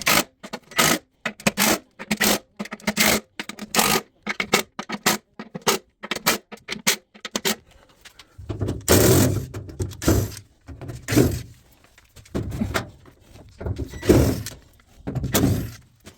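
Sped-up work on a top-loading washing machine's parts: a quick run of short, sharp scrapes, about two a second, then from about halfway longer, heavier scraping strokes with a low rumble.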